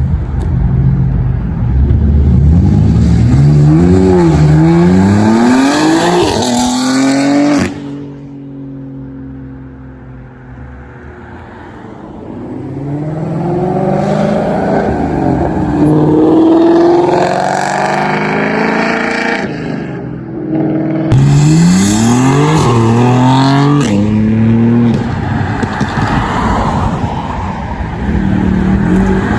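High-performance car engines revving and accelerating hard through the gears, the pitch climbing and dropping back with each shift, in several short clips cut together. A quieter stretch about a third of the way through has an engine running at a lower, slowly falling pitch.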